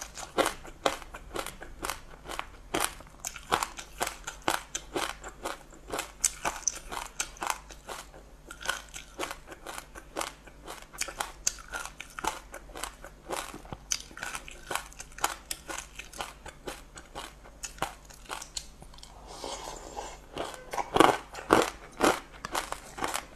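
Close-miked chewing of a mouthful of sesame seeds mixed with passion fruit pulp: a dense run of small, crisp crunches and clicks, with a few louder crunches near the end.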